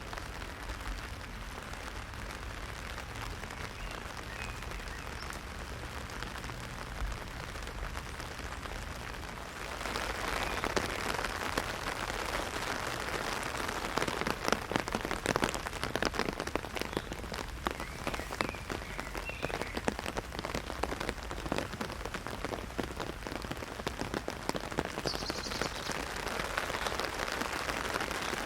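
Heavy rain hitting an umbrella overhead, a dense steady patter of drops that grows louder and thicker about ten seconds in.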